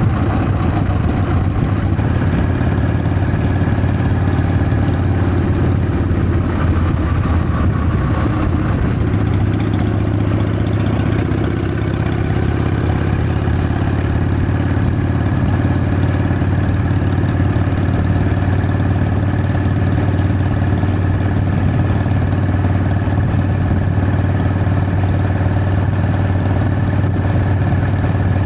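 Harley-Davidson Sportster's V-twin engine running steadily, heard close up from the bike.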